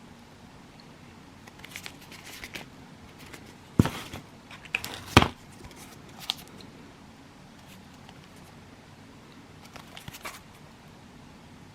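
Fireworks and their cardboard and plastic packaging being handled: scattered short rustles, two sharp knocks about four and five seconds in, and more rustling near the end.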